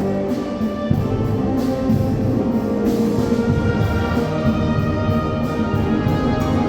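Mixe wind band (banda filarmónica) of brass, woodwinds and percussion playing a piece, with held chords over a heavy low brass and drum line.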